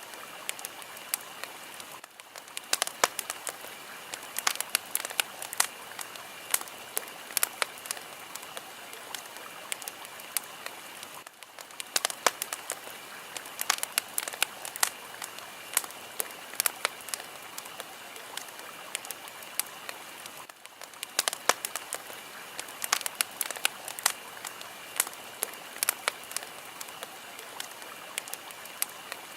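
A fire crackling: a steady hiss with many sharp, irregular crackles and pops, briefly dipping every nine seconds or so.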